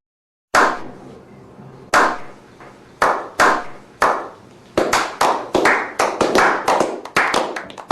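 Hands clapping: after a brief dead silence, a few single claps spaced about a second apart, then a quicker, uneven run of claps from about five seconds in.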